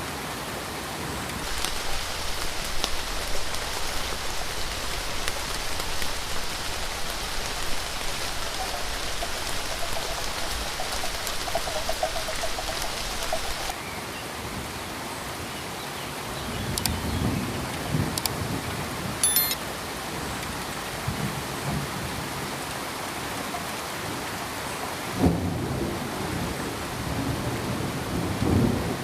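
Steady hissing noise with low rumbles in the second half and a few sharp clicks; the background changes abruptly about halfway through and again near the end.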